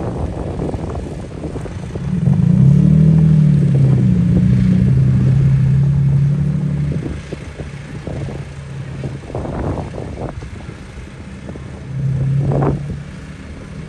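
Tractor engines running as they drive past, one loud passing about two seconds in that lasts several seconds, then a shorter, weaker one near the end.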